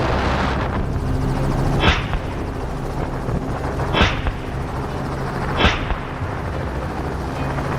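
Helicopter running steadily with a low drone, and three gunshots about two seconds apart cracking over it.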